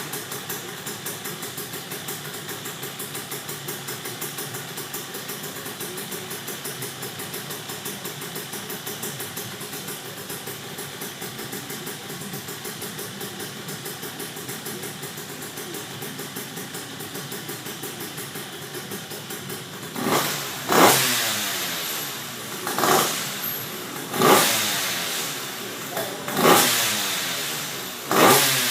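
KTM 85 two-stroke single-cylinder engine in a quad idling steadily, then blipped about five times in the last third, each rev rising sharply and falling back to idle.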